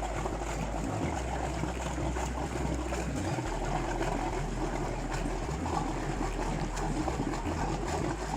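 Wind rumbling on the microphone over water, with a motorboat's engines running.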